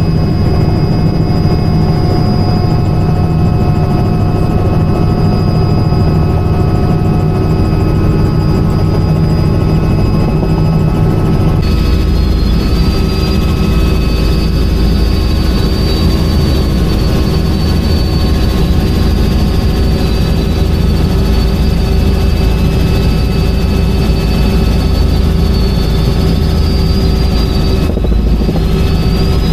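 Helicopter in flight, its turbine and rotor running steadily with a loud low rumble and a steady whine, heard by a passenger aboard. The tone shifts slightly about twelve seconds in.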